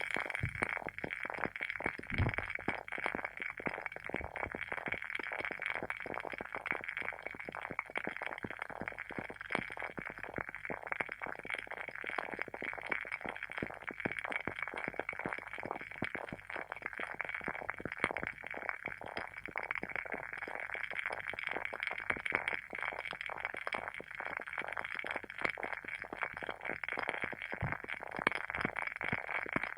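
Wooden candle wick crackling as it burns: a dense, steady run of fine irregular pops and snaps, like a small campfire, with an occasional slightly deeper pop.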